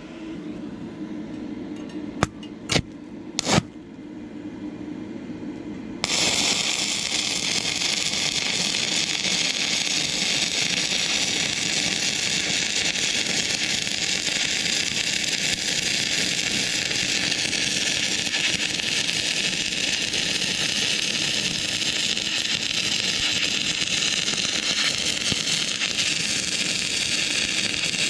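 Stick welding with a 6011 rod on an inverter arc welder: a few sharp taps as the rod is struck, then about six seconds in the arc catches and burns with a steady, dense hiss.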